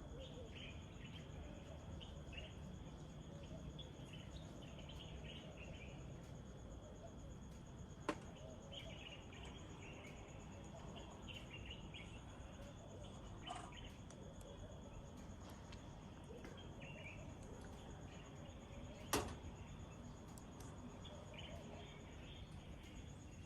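Faint outdoor ambience: small birds chirping on and off over a steady high insect drone, with two sharp knocks, about 8 seconds and 19 seconds in, the second the louder.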